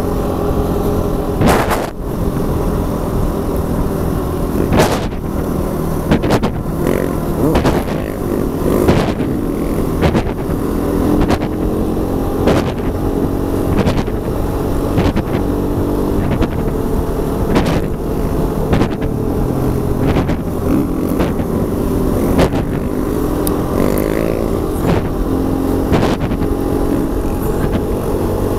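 KTM 500 single-cylinder four-stroke dirt bike engine running at road speed, its pitch shifting up and down with the throttle and rising in a rev a little over three-quarters of the way through. Frequent gusts of wind buffet the microphone.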